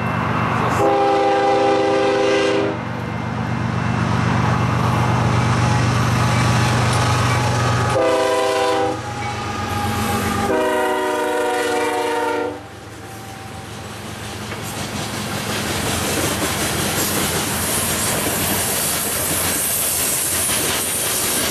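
Diesel locomotive of a freight coal train sounding its multi-tone air horn three times (long, short, long) over a steady engine rumble. The horn and engine then fall away and the noise of the coal cars rolling past on the rails builds up.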